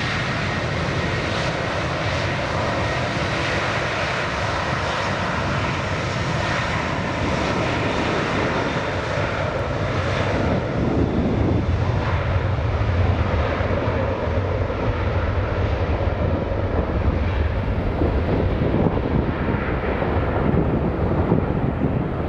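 Airbus A330 jet engines at high power on a departure, with a faint whine early on. About ten seconds in the high-pitched part fades and a deep low rumble grows stronger as the aircraft passes and moves away.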